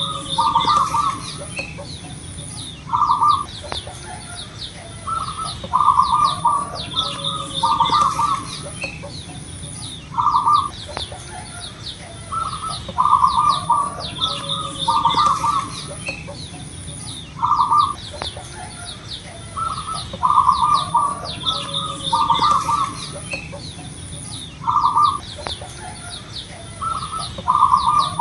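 Zebra doves (perkutut) cooing over and over in short clusters of staccato notes, one burst every second or two. Smaller birds chirp higher up, and a high pulsing buzz runs underneath.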